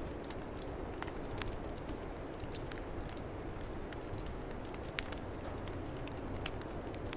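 Wood fire crackling with scattered sharp pops, one louder pop about five seconds in, over a steady low rush of snowstorm wind.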